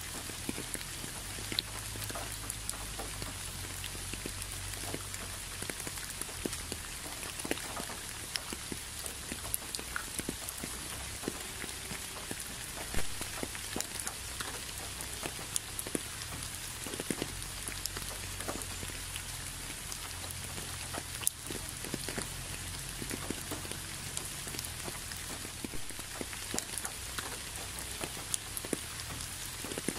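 Steady rain falling, with many separate drops tapping close by; one sharper tap comes about 13 seconds in.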